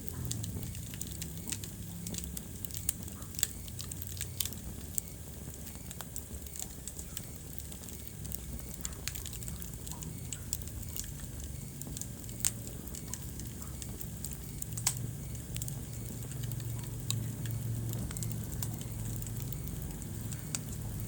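Wood fire burning in a fireplace, crackling with irregular sharp pops over a steady low rumble of flames.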